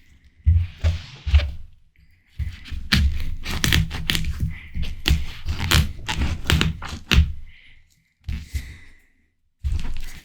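Close-miked eating of juicy watermelon: repeated crunching bites and wet chewing in several stretches, with short pauses between them.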